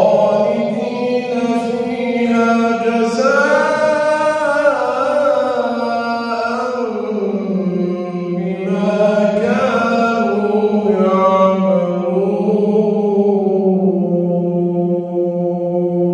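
A man reciting the Quran in slow, melodic tajweed, drawing out long held notes that waver and slide in pitch across a few extended phrases.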